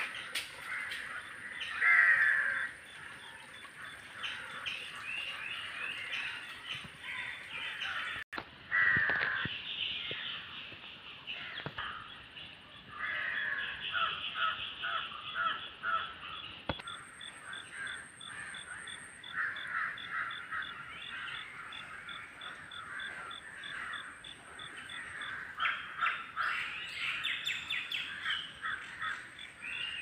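Several birds calling and chirping in dense woodland, with many overlapping calls and two much louder calls, one about two seconds in and one about nine seconds in.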